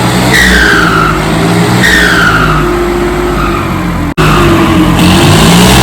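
Turbocharged tractor diesel engine being revved, each rev followed by a high turbo whistle that falls in pitch as it spools down, repeating about every second and a half. The sound cuts out for an instant a little past the middle.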